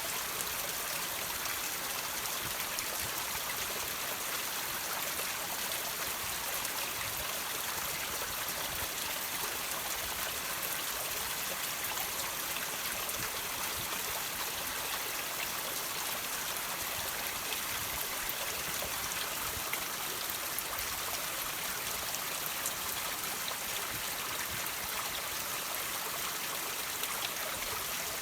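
Water trickling and dripping off rocks: a steady, even splashing hiss with many small drops ticking through it.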